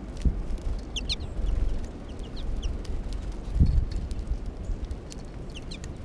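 Small songbirds chirping: clusters of short, high, slightly falling notes about a second in, again around two and a half seconds, and near the end. Under them runs a low wind rumble on the microphone, with a low thump about three and a half seconds in.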